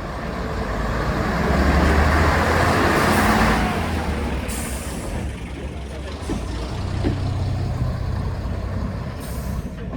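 Class 121 single-car diesel railcar's engine running, swelling to its loudest a couple of seconds in, then easing. There are short hisses of air about halfway through and again near the end.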